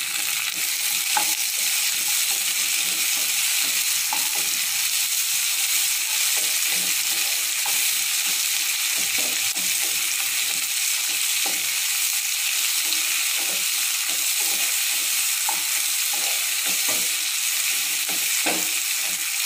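Chopped tomatoes, onions and garlic sizzling steadily in hot oil in a kadai, stirred with a wooden spatula that scrapes and taps lightly against the pan.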